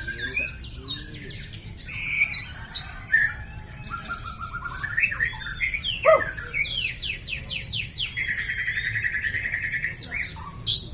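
White-rumped shama singing a varied song of whistled phrases and quick sweeps, with a sharp downward note about six seconds in and a fast, even trill lasting about two seconds near the end.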